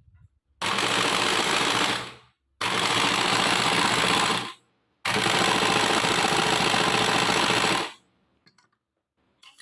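Sewing machine stitching in three runs, each about one and a half to three seconds long, very noisy. The owner puts the noise down to the bobbin case area needing cleaning and oiling.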